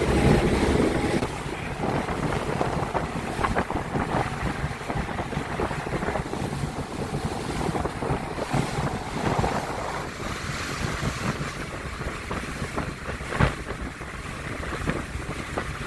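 Wind buffeting the microphone over the rush of water along the hull of a boat under way, with a single sharp thump about thirteen seconds in.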